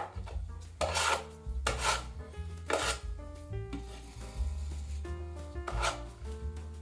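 Drywall knife scraping across patching compound on the wall in about five separate strokes, over background music.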